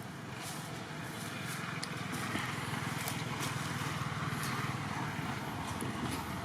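A motor vehicle passing: a low engine rumble that swells for a few seconds and eases off near the end, with a few faint clicks.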